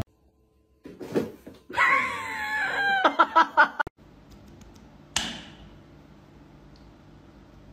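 A loud, wavering scream lasting about two seconds, breaking into a quick run of short cries. About five seconds in comes one sudden short burst of noise.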